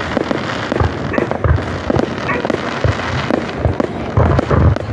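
Fireworks display: aerial shells bursting in a dense, irregular run of deep booms and sharp bangs, several a second.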